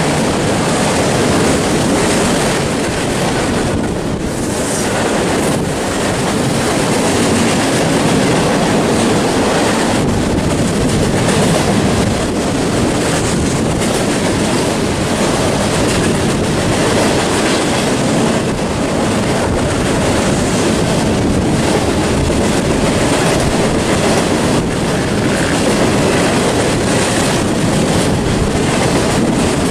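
Double-stack intermodal freight train passing close by, its steel wheels running steadily and loudly over the rails as the container-laden well cars roll past.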